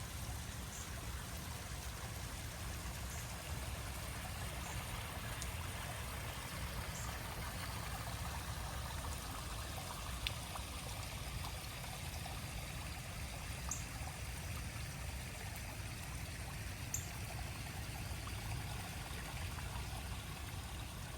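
Steady trickling, running water at a koi pond in light rain, with a few faint drip ticks scattered through it.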